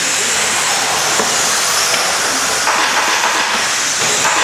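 A pack of electric 1/10 RC stadium trucks with 13.5-turn brushless motors racing on a dirt track: a steady high motor whine mixed with hiss from the tyres.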